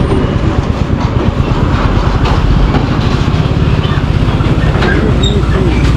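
Royal Enfield Classic 350's single-cylinder engine running steadily as the motorcycle rides along, with wind noise over the microphone.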